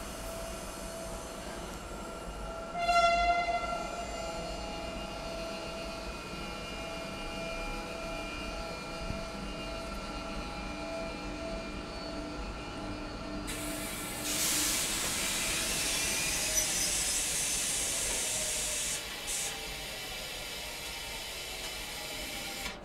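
Italo high-speed electric train moving slowly past along the platform, with a faint steady electric whine. Its horn sounds once, briefly, about three seconds in, and a loud hiss runs for about five seconds in the second half.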